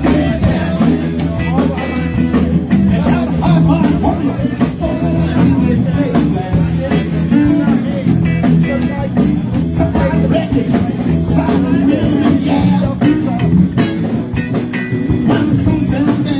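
Live rock band playing a rock and roll number, with electric guitar, bass and drums keeping a steady beat.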